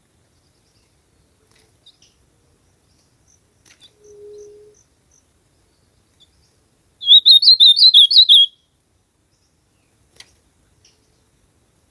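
Ultramarine grosbeak (azulão) singing one short, loud warbled phrase about seven seconds in, lasting about a second and a half, with a few faint short notes before it.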